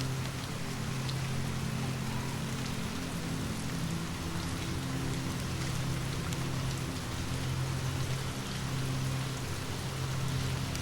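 Steady rain falling, an even hiss of drops with a few faint ticks, over a low steady hum.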